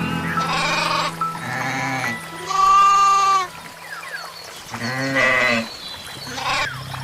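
An animal bleating in about four calls, the loudest and longest about three seconds in, over background music with held notes.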